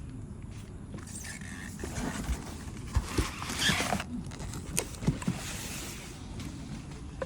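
Packaging being handled: rustling with several light knocks and clicks.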